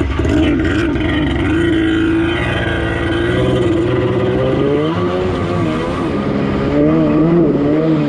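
Kawasaki X2 jet ski's 650 cc two-stroke twin running just after starting, steady at first, then its pitch wavering up and down from about five seconds in. The owner thinks it is running rich and wants to adjust the carburettor's low-speed setting.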